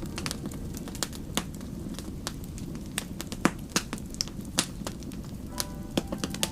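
Wood fire burning, with irregular sharp crackles and pops over the steady low rumble of the flames.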